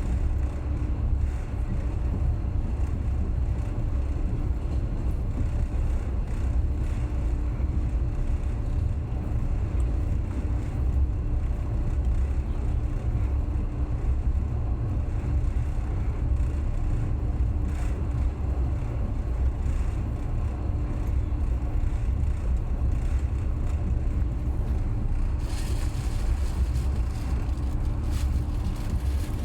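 Passenger train running along the line: a steady low rumble with a constant hum. A hiss of higher noise joins about four seconds before the end.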